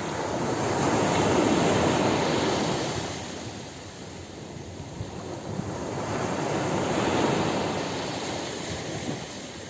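Ocean waves breaking and washing up a beach, the surf swelling and fading twice, with the first wave the louder.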